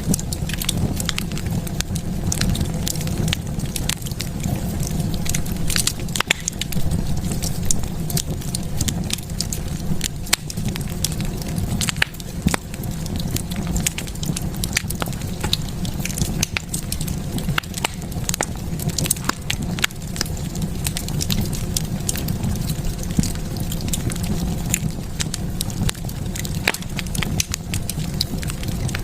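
Wood fire burning in a fireplace, crackling steadily: frequent sharp pops and snaps over a continuous low rumble.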